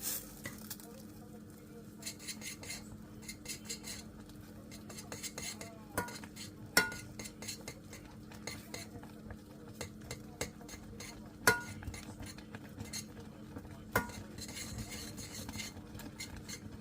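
Thick choux pastry dough being stirred and beaten in a small saucepan: a utensil scraping and slapping against the pan, with four sharp knocks on the pan spread through. The flour and butter paste is being cooked until it pulls away from the sides of the pan. A steady low hum runs underneath.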